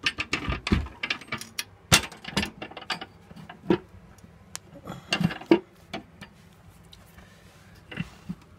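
Metal clinks and knocks as the steel fireplace door with its glass panel is taken off and handled. Dense clattering for the first few seconds, then a few scattered single knocks.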